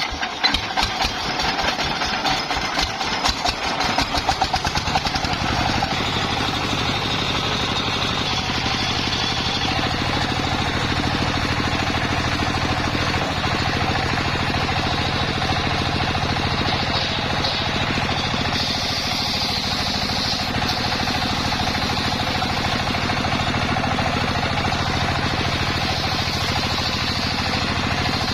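Engine of a homemade circular-saw rig, uneven and choppy for the first few seconds, then settling into a steady run.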